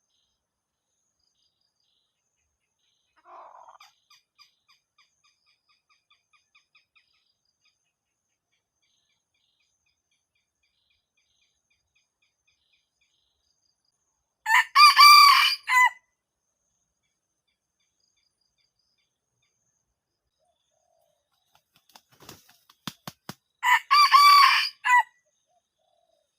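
Red junglefowl cock crowing twice, each a short, loud crow of just over a second, the second about nine seconds after the first. A few sharp clicks come shortly before the second crow, and faint bird chirps sound early on.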